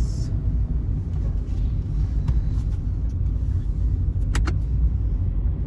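Steady low rumble of a moving bus, engine and road noise heard from inside the cabin, with two short sharp clicks a little past the middle.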